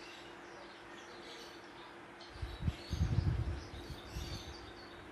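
Small birds chirping and twittering, several short high calls overlapping. About halfway through there is a louder low rumble with a few thumps lasting about two seconds, under a faint steady low hum.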